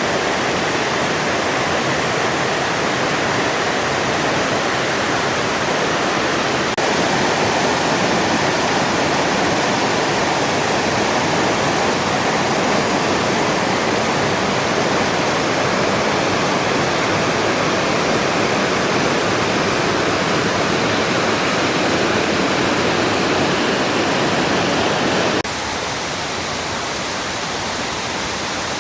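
Waterfall rushing steadily, running with much more flow than usual. The roar steps down sharply in level near the end.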